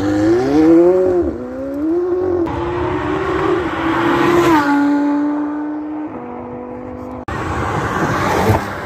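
Supercar engines revving hard as the cars accelerate away, the engine note rising and dropping with gear changes. The sound cuts abruptly from one car to the next twice.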